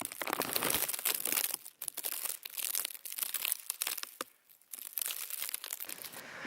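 Footsteps crunching through fresh snow at a steady walking pace.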